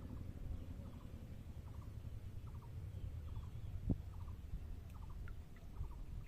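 Animal calls, short and repeated in quick clusters of two or three, about two clusters a second, over a low rumble. A single thump about four seconds in.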